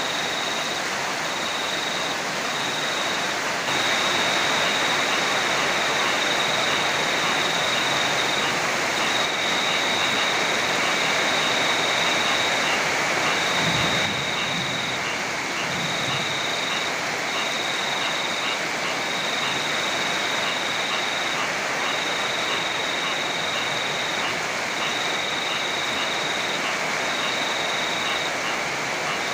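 Heavy rain falling steadily, with a cricket trilling high above it in stretches of one to two seconds with short gaps.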